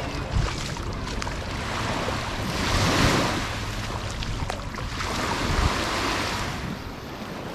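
Small sea waves breaking and washing up the beach, swelling twice about three seconds apart, with wind rumbling on the microphone.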